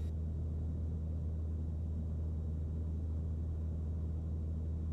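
Mooney M20C's four-cylinder piston engine droning steadily in cruise, heard in the cockpit as an even low hum.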